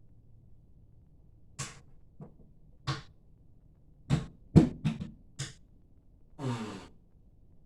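A run of about eight sharp knocks and clicks, the loudest about halfway through, followed by a brief noisy sound that falls in pitch.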